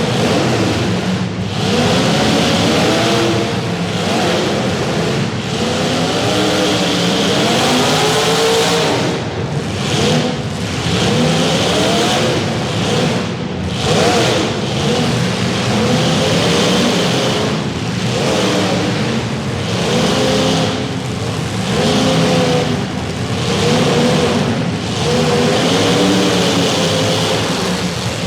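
Several demolition derby car engines revving hard, their pitch rising and falling again and again as the cars accelerate and back up.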